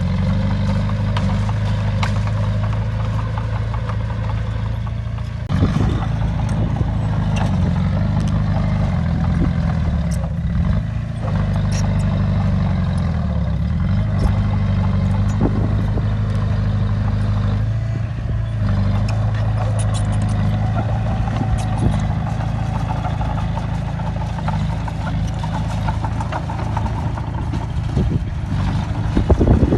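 Bulldozer's heavy diesel engine running under load, its pitch dropping and rising as the load changes, with a few sharp metallic knocks.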